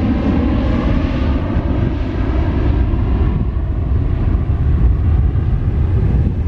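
Jet airliner taking off, a loud, steady engine roar. The higher hiss fades after about three and a half seconds while a deep rumble carries on.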